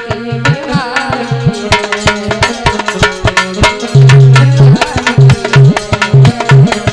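Instrumental Indian folk music: a tabla beats a fast rhythm, with repeated deep, booming bass strokes, under a wavering melody line.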